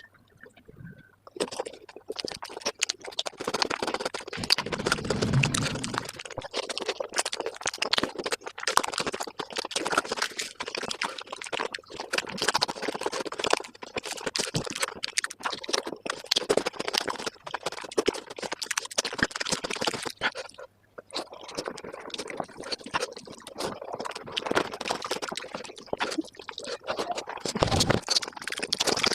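Close-miked mukbang eating of palak paneer played at five times speed: a fast, dense run of wet chewing and mouth-smacking clicks, breaking off briefly about 21 seconds in.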